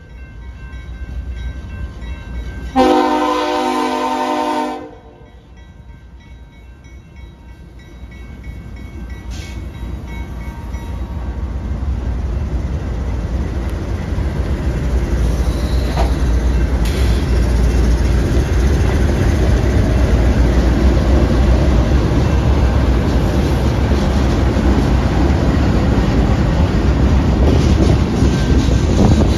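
CSX freight train's horn sounding one blast of about two seconds, followed by the diesel locomotives and cars passing close by, their low rumble growing louder and then holding steady.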